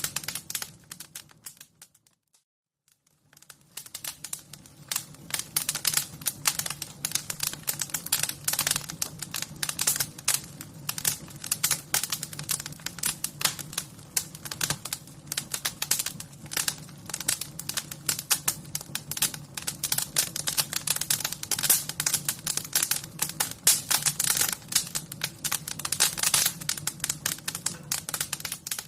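Wood fire crackling: a dense run of sharp crackles and pops over a low steady rumble. It fades out about two seconds in and comes back about a second and a half later.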